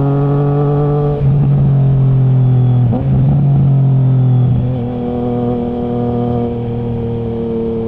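Triumph Trident 660's inline three-cylinder engine through a baffle-less Zard stainless full exhaust, pulling at steady revs. It breaks briefly twice, a little after a second and about three seconds in. From about five seconds it eases off and the revs slowly fall.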